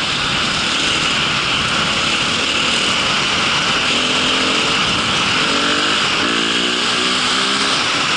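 A motor vehicle running steadily with a loud, even rush of noise, with a faint pitched note rising and falling over it in the second half.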